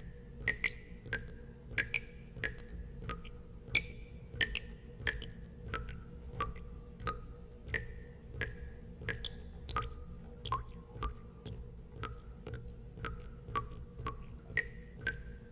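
Water drops dripping at an irregular pace of about two a second, each a sharp plink with a brief ringing tone whose pitch varies from drop to drop, over a steady low hum.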